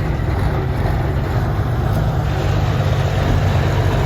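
Heavy diesel truck engine running steadily, a deep continuous rumble.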